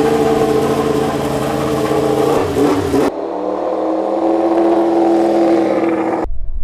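Racing engine running at high revs, a steady high note. The sound changes abruptly about three seconds in and again near the end.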